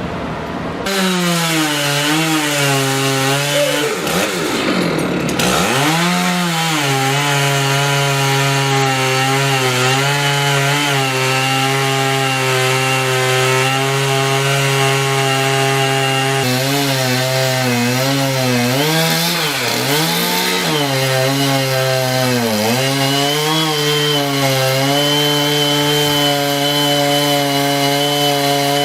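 Two-stroke chainsaw running at high speed, starting about a second in. Its engine note dips sharply and recovers a few times, once early on and twice about two-thirds of the way through.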